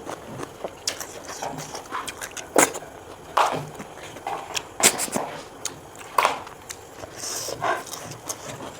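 Close-up eating of snail and pork-rib curry: irregular sucking and chewing sounds with scattered sharp clicks and knocks.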